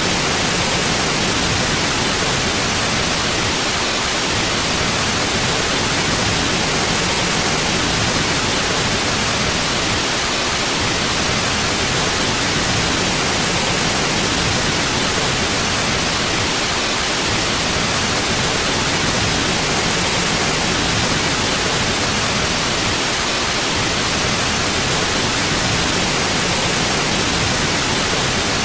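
Steady white noise, an even hiss with no change in level or character, cut off above the upper treble.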